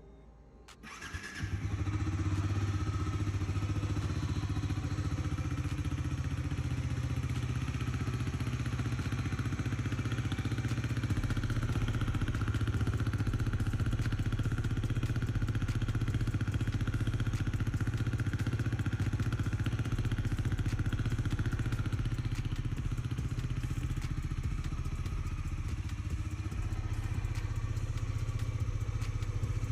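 Bajaj Dominar 400's single-cylinder engine starting about a second in and then idling steadily.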